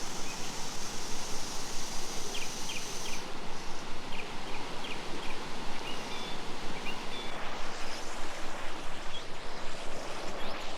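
Steady rush of running stream water, with a few faint bird chirps early on.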